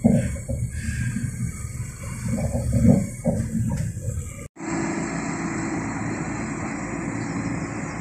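Low, uneven rumble of a Class 197 diesel multiple unit's running gear heard from inside the carriage as it pulls into a station. About halfway through, a cut gives way to the steadier running sound of a Class 197 train approaching along a platform.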